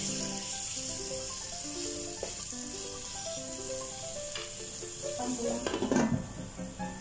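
Chicken breast and sliced onions sizzling as they fry in a nonstick pot, stirred with a spatula at first, over background music. About six seconds in, a glass lid clatters onto the pot.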